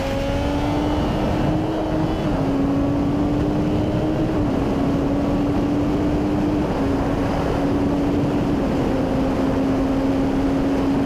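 Triumph Daytona 675R inline-three engine running at high revs under way, a steady high engine note over heavy wind rush. The pitch creeps up and dips slightly a couple of times in the first few seconds, then holds.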